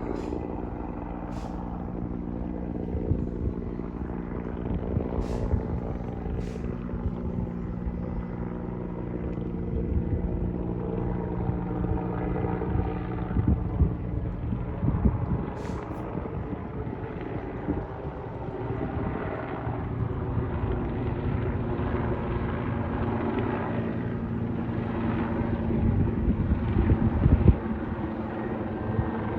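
Steady engine drone with a low hum and rumble that swells toward the end, with a few sharp clicks.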